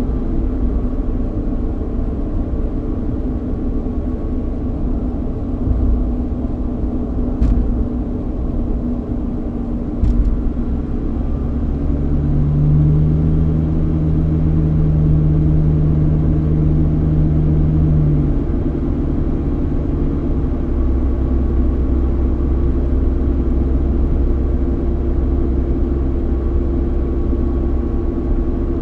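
Cabin noise inside a 3.8-litre V6 Ford Mustang on the move: a steady engine hum over low road rumble. Two sharp clicks come about a quarter of the way in. From about twelve seconds in, the engine drone grows stronger and louder for around six seconds before settling back.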